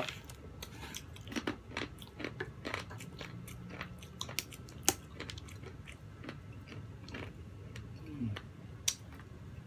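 Close-miked eating of soft cream cake: wet mouth clicks and lip smacks from chewing, scattered irregularly.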